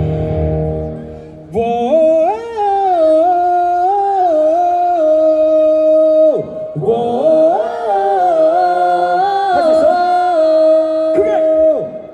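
A singer's voice over a PA system, vocalising wordlessly in two long held phrases of about five seconds each. The first phrase starts about a second and a half in; the pitch wavers and slides within each phrase.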